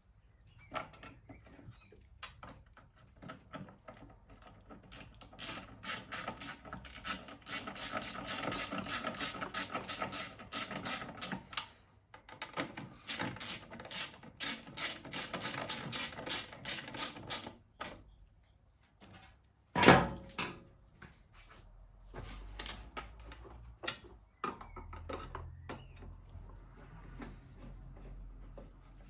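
Ratchet wrench clicking rapidly in long runs as a bolt is turned on a lawn mower, with scattered lighter tool clicks. One sharp metallic knock about two-thirds of the way in is the loudest sound.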